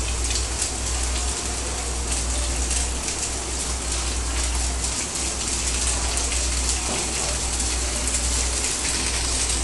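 Chow mein frying in hot oil in a pan, boiled noodles just added to the sausages and vegetables: a steady crackling sizzle, with a low steady hum underneath.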